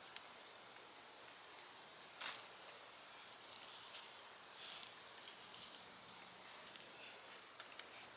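Faint, irregular rustling and scraping of soil and vines as sweet potatoes are dug out of a raised bed by hand. A steady faint high insect drone runs underneath.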